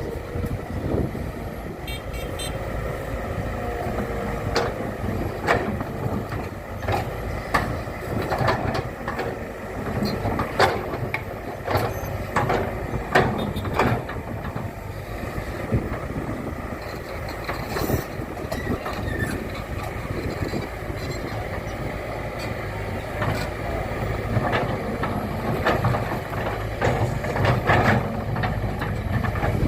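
Heavy construction vehicle engine running with a steady low rumble, with frequent sharp knocks and clanks throughout.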